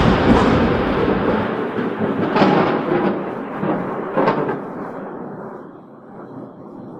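Close thunderclap: it starts loudest as a sharp crack and breaks into a long rumble, with two more cracks about two and four seconds in, then fades away.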